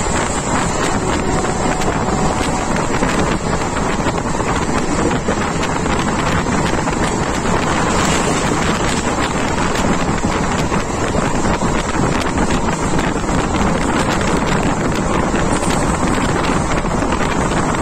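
Wind rushing past and buffeting the microphone at the open door of a moving passenger train, over the steady running noise of the coach on the rails.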